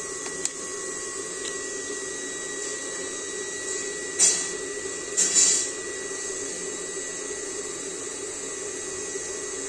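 Small electric motor of a homemade cooler running with a steady whine and hum. There are two brief, louder noisy bursts about four and five seconds in.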